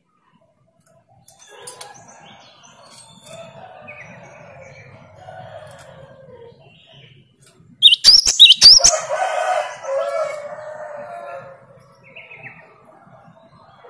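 Gelatik batu (cinereous tit) giving a loud burst of sharp, high, swooping whistled notes about eight seconds in. Lower, drawn-out bird calls come before and after the burst.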